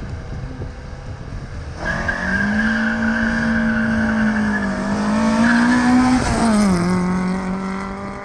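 Two cars' engines held at high revs at a drag-race start line, then launching and pulling away down the strip. The engine note holds nearly level, drops sharply about seven seconds in, and fades as the cars move off.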